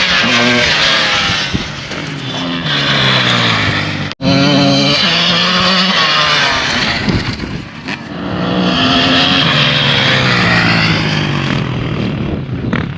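Motorcycle engines revving hard as they accelerate in a drag race, the pitch climbing and then dropping again several times as they change gear or pass by. The sound cuts out abruptly for an instant about four seconds in.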